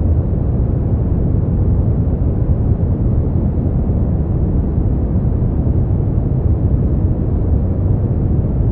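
Continuous synthetic noise for sleep, steady and unchanging: a deep, muffled rush strongest in the bass, with little hiss at the top.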